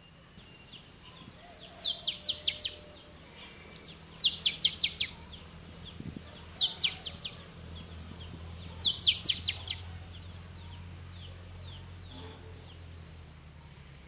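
Oriental magpie-robin singing the same short phrase four times, about every two and a half seconds: each a falling whistle followed by a quick run of five or so sharp notes. A faint low hum runs underneath.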